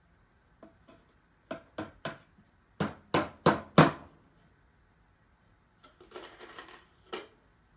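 Hammer driving a nail into the cedar top of a wooden birdhouse: two light taps, three firmer blows, then four hard strikes about a third of a second apart. A short spell of softer rattling follows, then one more knock.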